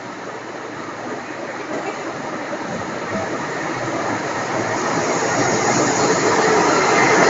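Train noise: a steady rushing rumble that grows gradually louder.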